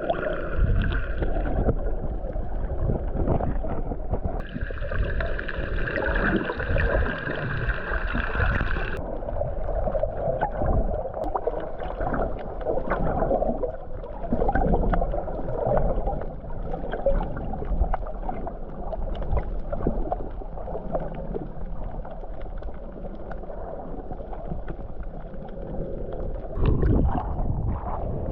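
Water gurgling and splashing around a snorkeling boat, with no speech. A steadier, higher hum runs for a few seconds early on and stops abruptly about nine seconds in.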